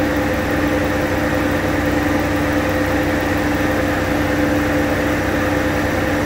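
1996 Buick Century's 3.1-litre V6 idling steadily, with a constant even hum.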